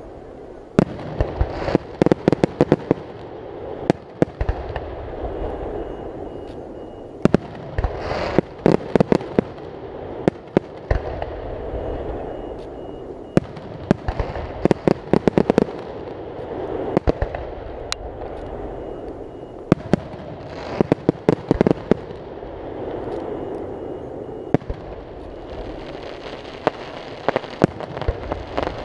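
Aerial fireworks display: shells bursting in clusters of sharp bangs every few seconds, some in rapid crackling runs, over a steady background noise.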